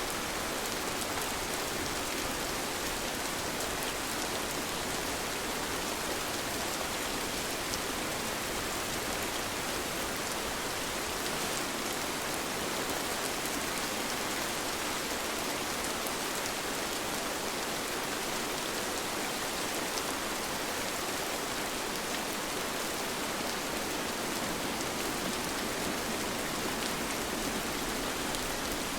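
Steady rain falling evenly, a constant hiss with faint scattered drop ticks.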